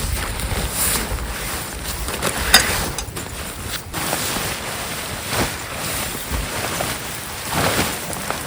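Wind rushing and buffeting the microphone outdoors, with a sharp click about two and a half seconds in.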